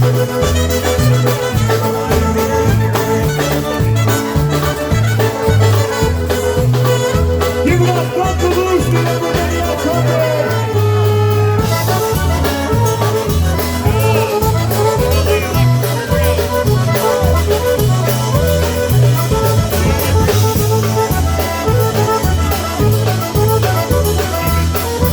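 Live polka band playing a tune: accordion melody over an alternating oom-pah bass on a steady beat.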